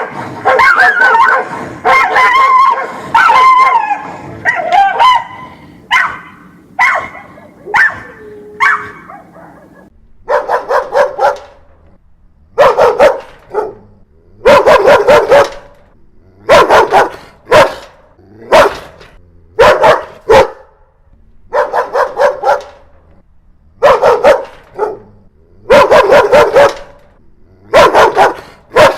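Dogs barking angrily. For about the first ten seconds the barks and yelps overlap in a dense tangle; after that the barking comes in separate bursts of two to four barks every second or two.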